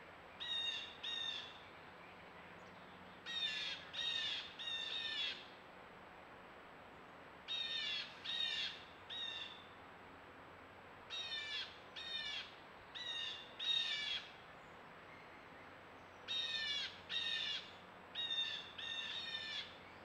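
A bird calling in repeated series, five series of two to five calls each, a few seconds apart.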